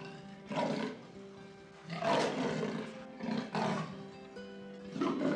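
Lion roaring in a run of short, rough roars, over background music with held tones.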